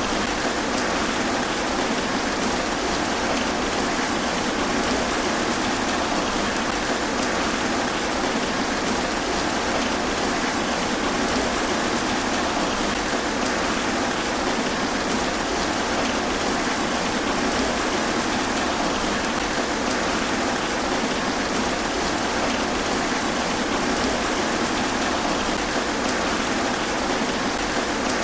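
Steady rain falling through trees, an even hiss of drops on leaves with no distinct drops or thunder standing out.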